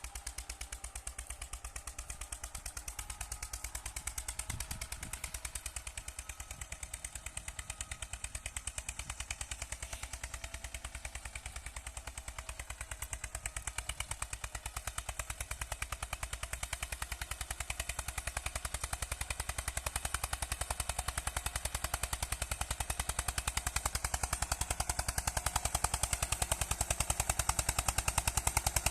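Eicher 242 tractor's single-cylinder diesel engine running with a rapid, even chugging of exhaust pulses, growing gradually louder.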